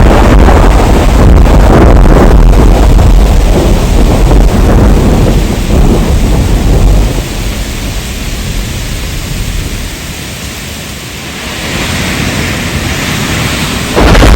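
Heavy rain with deep, rolling thunder rumbling. About halfway through, the thunder dies away and a quieter rain hiss is left. Near the end the full, loud storm cuts back in suddenly.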